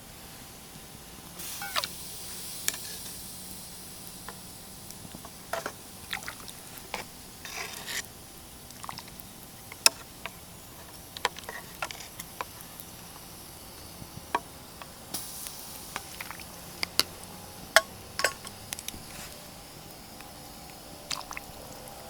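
Irregular sharp clicks and light knocks, with two brief hissing bursts, one near the start and one about two-thirds of the way through.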